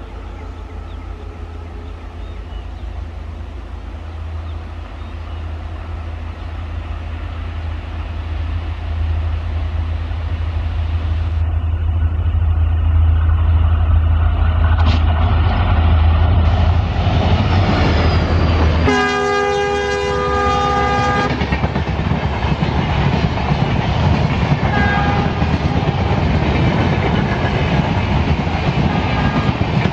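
EMD WDP4 diesel locomotive, with its two-stroke V16 engine, approaching with a deep drone that grows steadily louder, then sounding its multi-tone horn for about two and a half seconds as it passes. After the horn, the LHB coaches of the express rumble and clatter over the rail joints.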